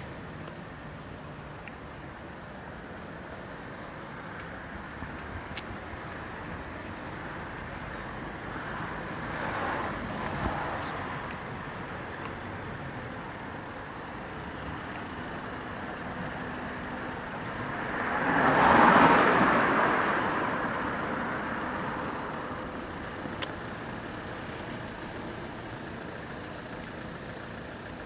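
Road traffic on a city street: a steady background hum, with one vehicle passing about ten seconds in and a louder one passing about two-thirds of the way through, each swelling and fading over several seconds.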